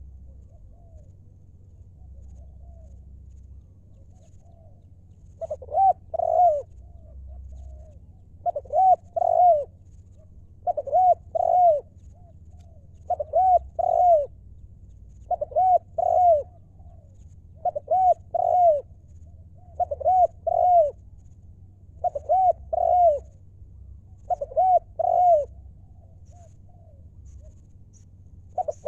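Spotted dove cooing: a repeated phrase of two or three rounded coo notes, coming about every two and a half seconds after a quiet first few seconds.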